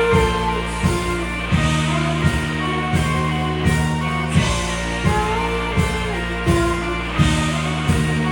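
Live indie rock band playing: electric guitar and bass over a steady drum beat, a little under one and a half beats a second.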